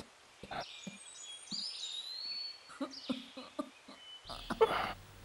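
Birds chirping and calling in short high notes and brief rising and falling whistles, with a few short soft taps. A faint low hum comes in near the end.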